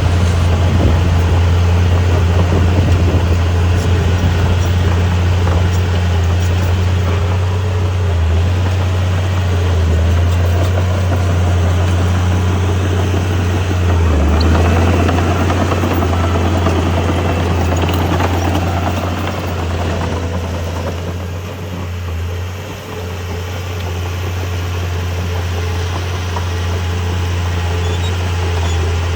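Heavy construction-equipment diesel engine running steadily with a strong low drone, easing briefly about three quarters of the way through.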